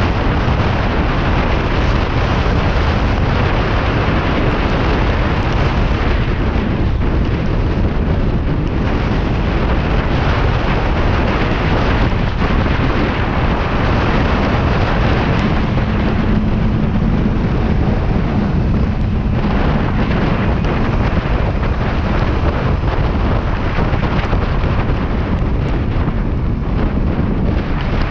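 Heavy wind rushing over the microphone of a moving Kawasaki Ninja 400 motorcycle, with its parallel-twin engine running underneath; a faint steady engine tone comes through about halfway in.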